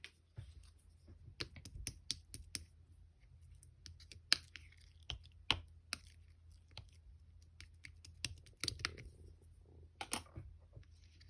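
Light-pink marbled slime being squeezed and poked by hand, giving irregular sharp clicks and pops from air pockets in the slime, over a faint steady low hum.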